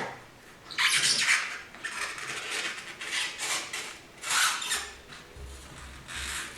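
A plastic lip seal installing tool scraping and rubbing against a greased rubber lip seal on a Ford 5R55S transmission part as it is worked around to seat the seal: a series of short scraping rubs about a second apart.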